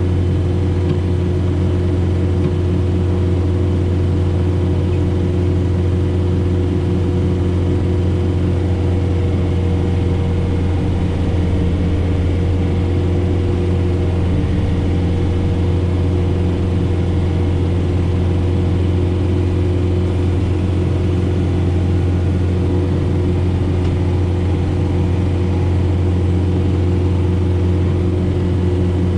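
John Deere 4066R compact tractor's diesel engine running steadily under load while driving a Frontier SB1174 snowblower, a low even drone with a faint steady whine above it.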